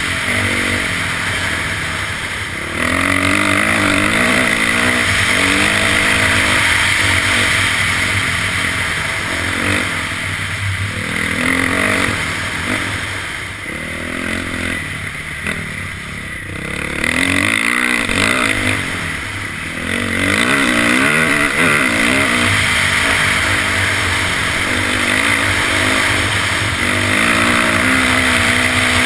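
Dirt bike engine running on a trail ride, its pitch rising and falling as the throttle opens and eases off. It gets louder a few seconds in and eases off twice around the middle.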